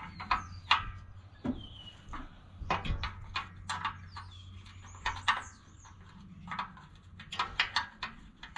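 A string of short, sharp clicks and knocks, irregularly spaced, with birds chirping now and then.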